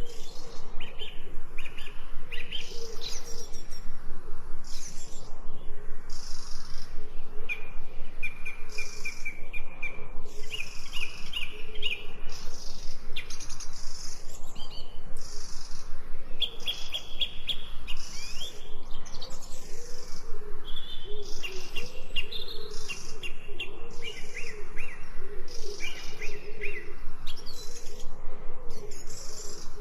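Songbirds chirping continuously, many short calls overlapping, with repeated rapid trills.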